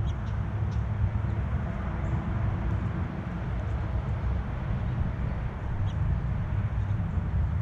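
Steady low outdoor rumble, with a few faint, brief high chirps from small birds at a feeder.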